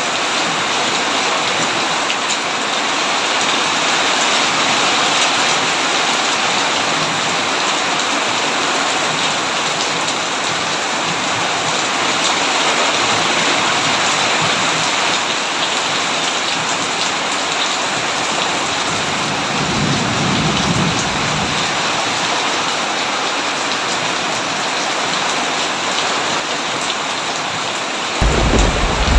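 Heavy steady rain, with thunder rumbling low about two-thirds of the way in and again, louder, just before the end.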